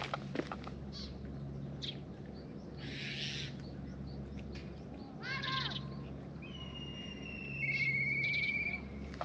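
A songbird singing about two-thirds of the way in: long clear whistled notes, then a quick trill, the loudest sound here. Before it comes a short call about five seconds in, and near the start a few sharp clicks of stray cats crunching their food, all over a low steady hum.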